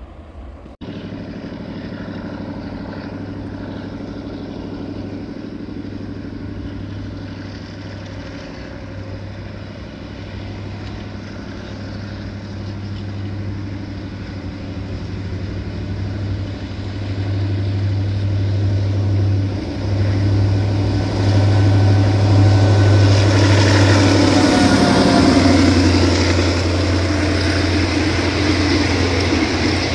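Diesel locomotive hauling a passenger train, its engine running with a steady low drone that grows louder as it approaches. It passes about 24 seconds in with a falling pitch, followed by the hiss and rumble of the coaches' wheels on the rails.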